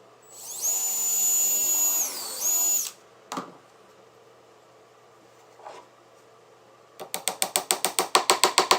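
Power drill whining at high speed for about two and a half seconds, its pitch sagging briefly near the end. Later comes a rapid, even run of sharp clicks, about eight a second, as the drill works again.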